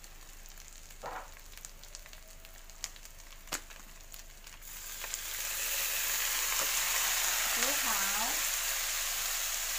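Shrimp frying with garlic and chili in a non-stick pan. A faint sizzle with a few light clicks swells about five seconds in into a steady loud sizzle.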